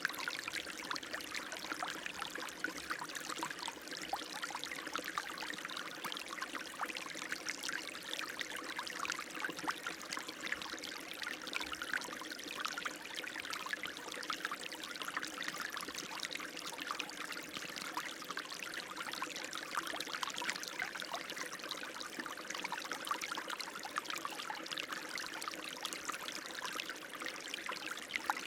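Running water flowing steadily, with many small splashes, at an even level throughout, and a faint steady tone underneath.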